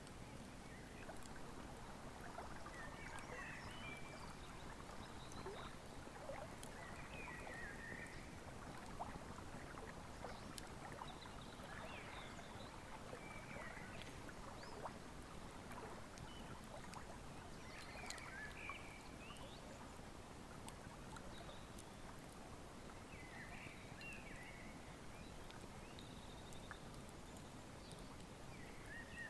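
Wood fire crackling with small scattered pops over the steady rush of a flowing river, with a bird chirping in short calls every few seconds.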